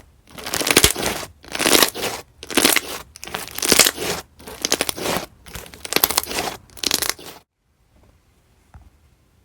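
Thick slime being squeezed and pressed by hand, crackling in repeated strokes about one every 0.7 seconds, which stop abruptly near the end.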